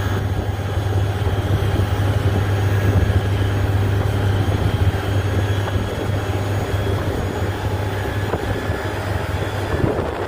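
Strong wind blowing with a steady low hum beneath the rushing noise.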